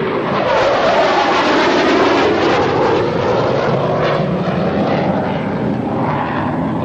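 Aircraft engine noise as a plane passes overhead, swelling to its loudest about a second or two in, then slowly fading.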